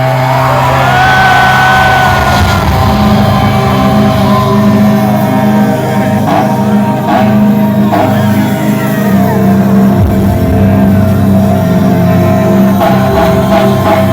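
Loud live band music with long held chords and shouting over it, as a concert opens.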